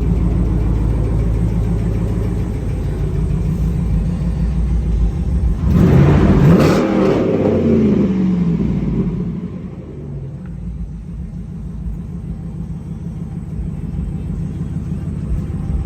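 Car engine with a straight-piped exhaust running at low revs, revved up once about six seconds in, its pitch rising then falling back, before settling into a quieter low rumble.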